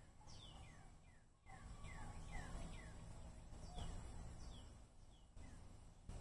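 Small birds chirping: a run of short chirps, each sweeping downward in pitch, several a second, over a low rumble.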